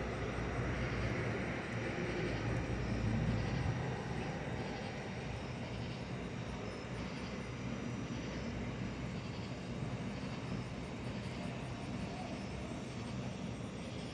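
Distant thunder: a low rumble that swells over the first few seconds and then eases into a steady outdoor hiss.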